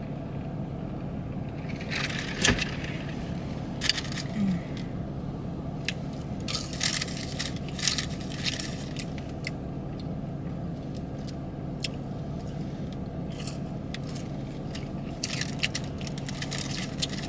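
Idling car engine giving a steady low hum inside the cabin, under bursts of crinkling and clicking from food and its wrapping being handled.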